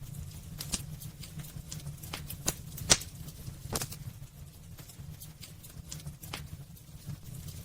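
Wood fire burning in a fireplace: irregular sharp crackles and pops from the burning logs over a low steady rumble of the flames, with the loudest pop about three seconds in.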